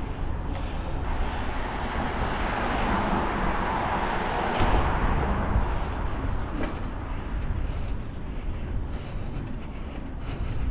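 Steady low rumble of a vehicle, with a rushing noise that swells to a peak about four to five seconds in and then fades.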